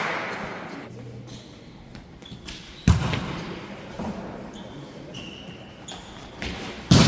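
A volleyball thudding against a hand or the hall floor twice, about three seconds in and again near the end, each hit ringing out with the echo of a large indoor hall. Fainter knocks sound in between.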